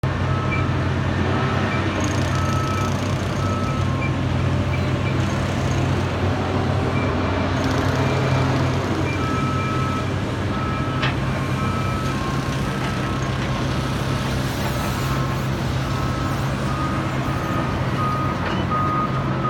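Construction truck diesel engines running steadily, with backup alarms beeping in repeated short tones; more than one alarm sounds at slightly different pitches and rates.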